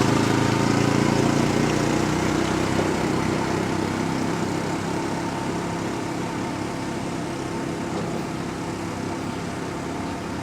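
An engine running with a steady hum that grows gradually quieter.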